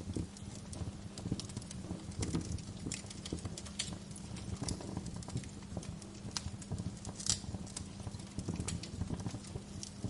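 Wood fire crackling: irregular sharp pops and snaps over a low steady rumble, with one louder pop about seven seconds in.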